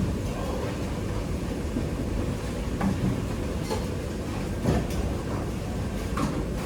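Steady low rumble of kitchen ventilation, with a few light clicks and clinks in the second half.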